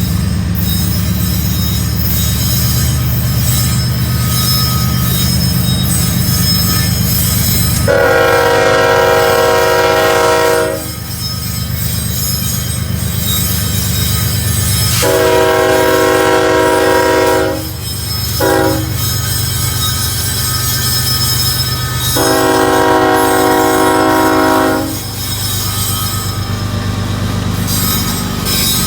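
Freight train's diesel locomotive horn sounding the grade-crossing signal, long, long, short, long, with several notes sounding together. A steady rumble of the passing train runs underneath.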